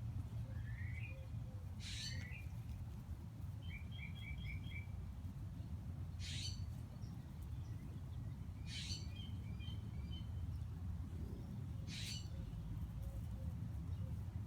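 Birds calling: a sharp high call about every three seconds, with short runs of quick repeated chirps between, over a steady low rumble.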